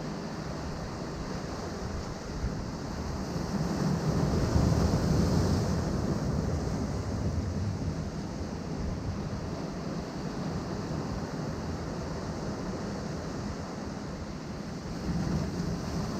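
Ocean waves breaking against seaside rocks, a continuous wash of surf. One wave surges up louder about four seconds in, and a smaller one near the end.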